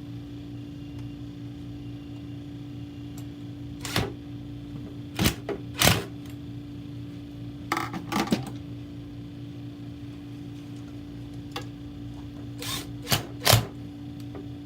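Scattered sharp clicks and knocks of a hand tool working the metal mounting screws as they are tightened, over a steady electrical hum. The clicks come in small clusters, with the loudest ones near the end.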